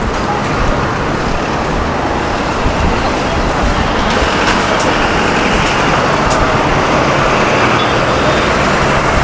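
Road traffic on a city street: a steady rushing of passing vehicles that swells through the middle and eases near the end.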